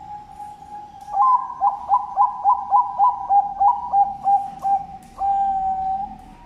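Bangkok perkutut (zebra dove) singing its cooing song: a long held opening note, a quick run of about a dozen short notes at roughly four a second, then one closing held note.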